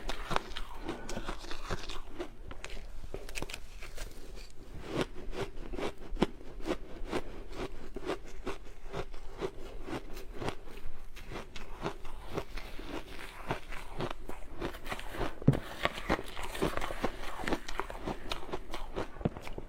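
Ice being bitten and chewed close to the microphone: a continuous run of crisp cracks and crunches.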